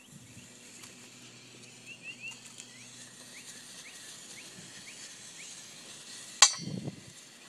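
Birds chirping, a string of short rising chirps, over faint outdoor background, with one sharp click about six and a half seconds in.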